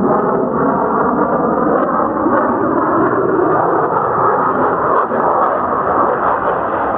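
F-35 fighter jet engines, loud and steady as the jets fly overhead.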